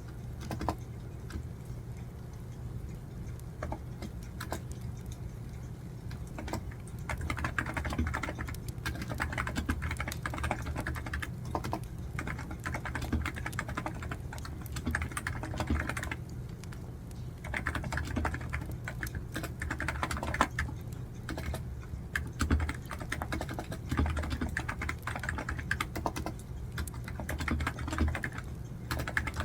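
Typing on a computer keyboard in runs of a few seconds with short pauses, over a wood fire crackling with scattered pops.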